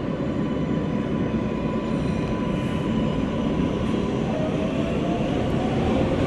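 R143 subway car's electric propulsion whining over the steady rumble of wheels on track, heard from inside the car: a thin steady tone through the first half, then a faint rising tone near the end.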